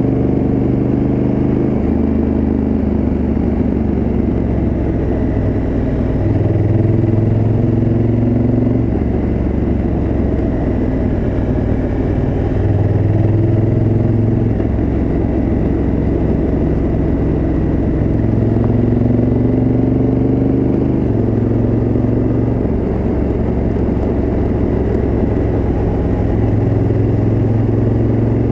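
Honda Africa Twin CRF1000L's parallel-twin engine running through its original exhaust while riding. The engine note holds steady for a few seconds at a time, then steps up or down in pitch as the throttle changes.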